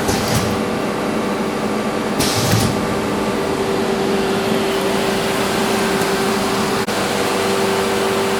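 Shrink-wrapping machine running with a steady whirring hum and one constant tone. A short hiss comes about two seconds in.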